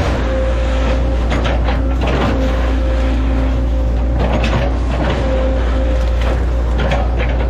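Hitachi Zaxis 110 excavator's diesel engine running steadily with a strong low hum, a whine that rises and fades several times, and scattered sharp cracks and knocks.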